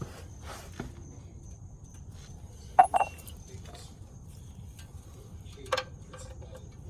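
A few sharp metallic clinks and knocks from handling tools or a jar: a close pair about three seconds in and a single clink with a short ring near the end, over a low steady hum.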